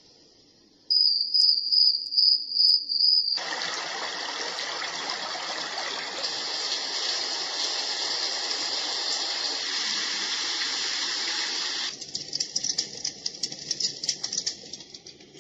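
A Dreamegg Pocket Sleep 1 mini white noise machine plays its built-in soothing sounds. First comes a high pulsing chirp for about two seconds. It switches abruptly to a steady rushing water-like noise for about eight seconds, which then changes to an uneven crackling near the end.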